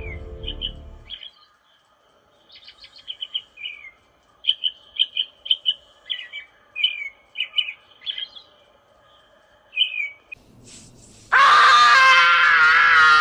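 Birds chirping in short, high, separate calls, then a boy screaming loudly and at length from about eleven seconds in.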